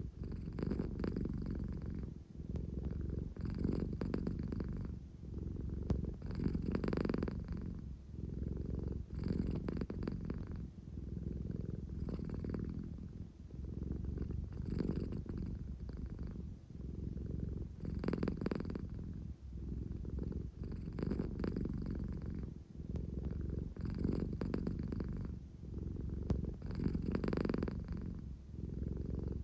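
American Shorthair cat purring steadily, a low rumble that swells and eases with each breath about every three seconds. It is the contented purr she makes when sleepy and wanting affection.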